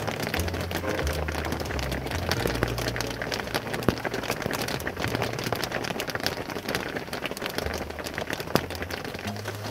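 Heavy rain falling steadily, with many sharp drop hits.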